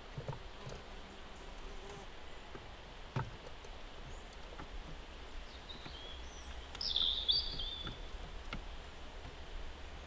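Quiet forest ambience with a few light knocks as a red squirrel moves about on the wooden box and floor of a small wooden feeder house; about seven seconds in, a bird gives a short run of high chirps, the loudest sound here.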